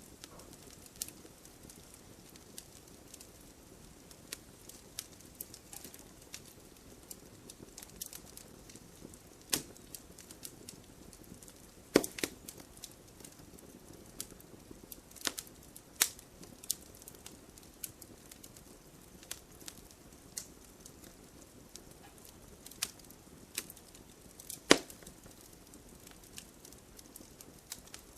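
Wood fire burning in a fireplace: logs crackling with irregular sharp pops and snaps over a soft steady hiss, the loudest pops about 12, 16 and 25 seconds in.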